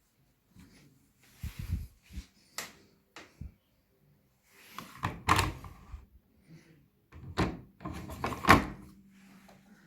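Front-loading appliance door being handled: a string of clunks and knocks with rustling between them, the loudest about halfway through and again near the end.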